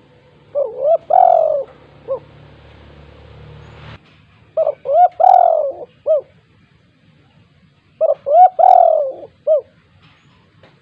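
Spotted dove (tekukur) cooing: three phrases, each a few short coos around one longer falling coo and a clipped final note. A faint hiss swells between the first two phrases and cuts off suddenly.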